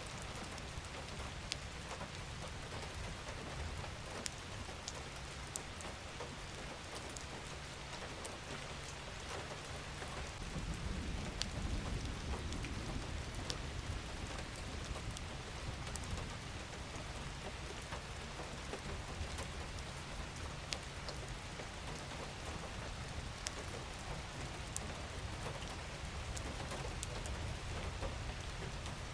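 Steady gentle rain falling, an even hiss with scattered sharp drop ticks. A low rumble swells up for a few seconds about ten seconds in.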